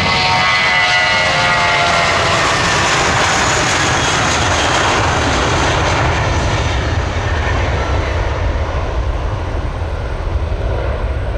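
Airbus A320-200 jet airliner taking off and passing, a loud roar of engine noise with a whine that falls in pitch over the first couple of seconds. A deep rumble follows as it climbs away.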